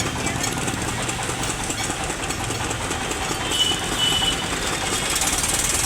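Tractor engines running steadily in a slow-moving procession, a dense mechanical rumble, with two short high beeps about three and a half seconds in.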